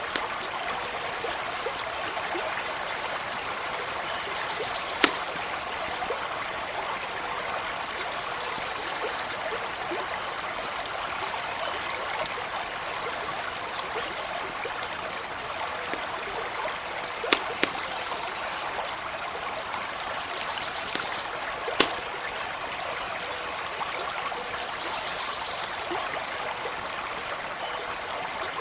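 Forest stream running steadily over stones, with a few sharp pops from a crackling campfire, about 5, 17 and 22 seconds in.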